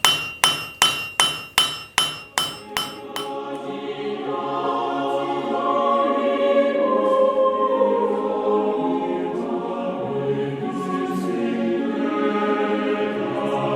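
A hammer strikes an anvil about nine times in a quick, even rhythm, each blow ringing. About three seconds in, a choir starts singing sacred polyphonic music and continues through the rest.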